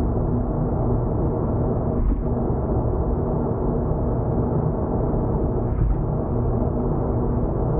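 Steady low rumble of a car's tyres and engine heard inside the cabin at expressway speed, with a brief thump about two seconds in and another near six seconds.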